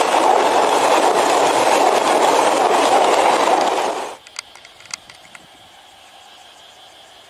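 Freight train wagons rolling past close at speed: a loud, steady rush of wheels on rail. It cuts off abruptly about four seconds in, leaving a faint hiss with a few scattered light clicks.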